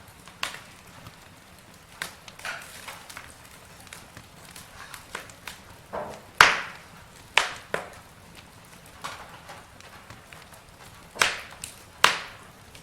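Wood campfire crackling: irregular sharp pops and snaps over a low hiss, with the loudest snaps a little past the middle and again near the end.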